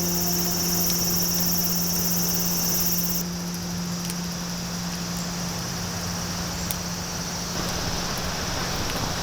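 Summer insects buzzing in a steady high-pitched drone that cuts off suddenly about three seconds in, over a low steady hum; a soft hiss rises near the end.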